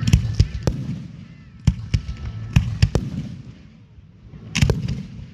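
Aerial fireworks bursting: a string of sharp bangs and cracks, three in the first second, more around two and three seconds in, and a cluster near the end, over a low rumble.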